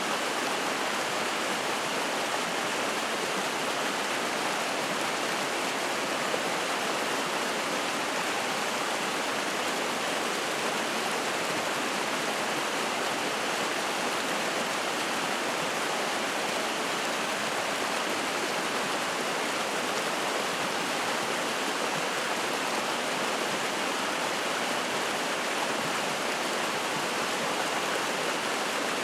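Spring-fed mountain stream rushing and splashing over rocks, a steady, unbroken rush of water.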